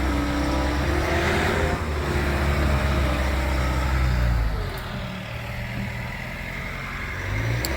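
Skid steer loader's diesel engine running steadily at idle, its drone dropping off and growing quieter about halfway through.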